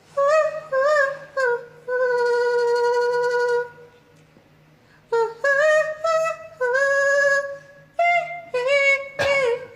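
A woman singing alone in a high voice with no instruments: three short notes, then a long held note, a pause, and a run of short notes that step up and down.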